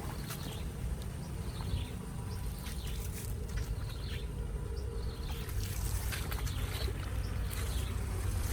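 Water trickling and flowing, with a steady low rumble underneath and many short high chirps dropping in pitch throughout.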